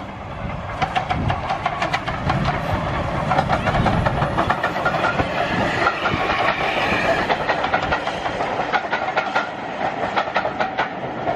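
Train running past on the rails, its wheels clicking in quick succession over the rail joints.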